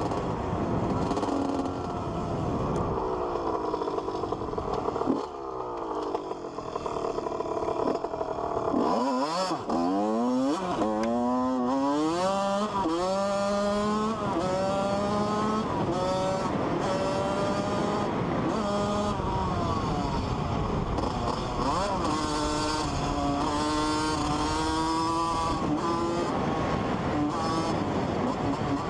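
Dirt bike engine revving and accelerating hard, its pitch climbing and levelling off again and again as it shifts up through the gears.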